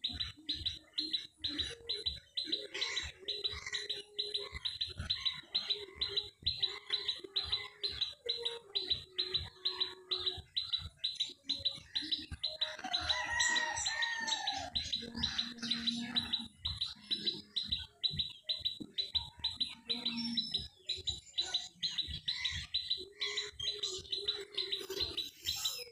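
Birds chirping, one with a high chirp repeated evenly about four times a second, and other bird calls joining in briefly around the middle.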